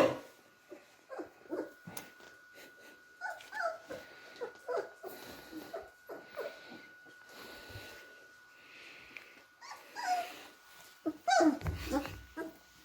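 Three-and-a-half-week-old beagle puppies playing: a string of short squeaks, whimpers and small growls, with a louder cluster near the end.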